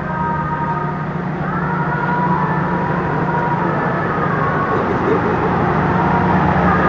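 Diesel train engine running steadily during a slow shunting move, a constant low hum with high, steady whining tones above it.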